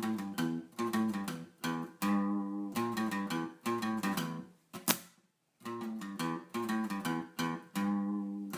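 Acoustic guitar music: chords strummed in a steady rhythm, broken about five seconds in by a sharp click and a short pause before the strumming resumes.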